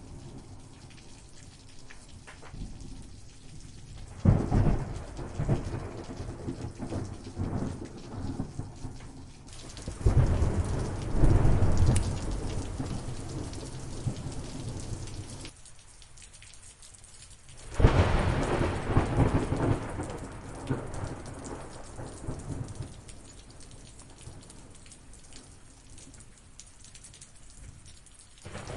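Thunderstorm: steady rain with thunder breaking three times, each crack fading into a low rumble.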